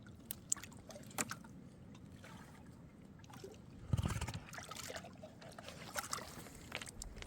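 Water trickling and splashing, with scattered small knocks and a dull thump about four seconds in.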